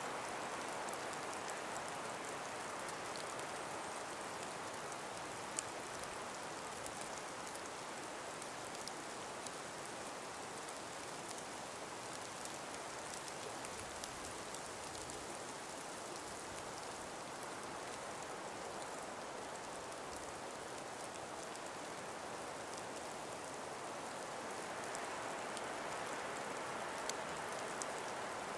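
A calm breeze blowing through an ice- and snow-laden forest: a steady soft hiss that swells gently near the start and again near the end, with faint scattered ticks.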